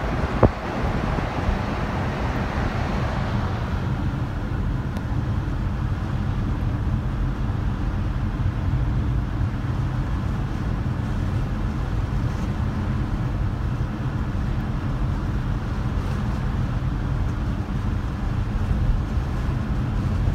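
Car driving along a road, a steady low rumble of engine and tyres. There is a single knock just after the start, and a hissing rush that fades away over the first few seconds.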